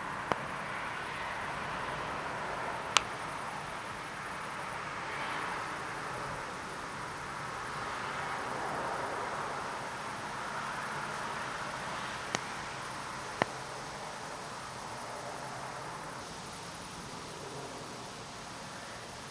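Steady outdoor night ambience, a hiss-like noise that slowly swells and eases, broken by four brief sharp clicks.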